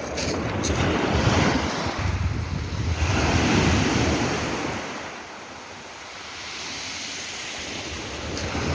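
Sea waves washing in surges, loud for the first few seconds, easing off past the middle and building again near the end, with wind buffeting the microphone.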